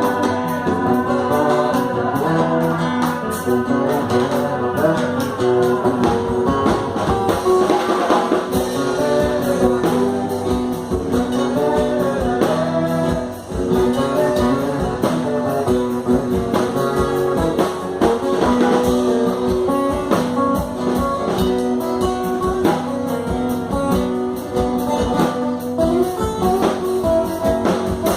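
Live band music with guitar to the fore and a steady beat, with singing at times, played through a stage sound system during a sound check.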